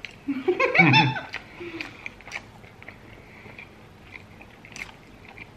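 A short vocal sound in the first second, then close-miked chewing of crispy fried chicken with small scattered crunches and mouth clicks.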